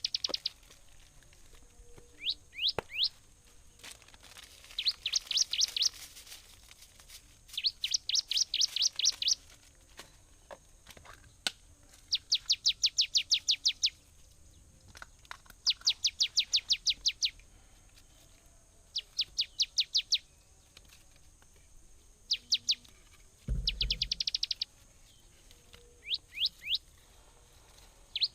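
A songbird calling in repeated quick trills of high, sharp chirps, each run lasting one to two seconds with short pauses between. A brief low thump sounds near the end.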